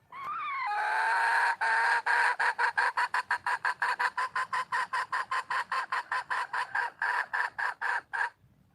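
Red junglefowl hen calling for a mate. A drawn-out wavering note opens the call, then it runs into a rapid series of clucks, about five a second, which stops abruptly near the end.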